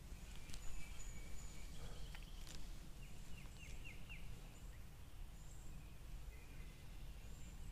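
Faint outdoor ambience under a steady low rumble, with scattered bird calls, including a quick run of about five short chirps about three seconds in.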